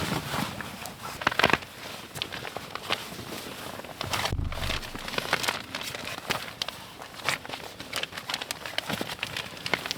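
Campfire crackling and popping, with irregular sharp snaps from the burning wood and a soft low thump about four seconds in.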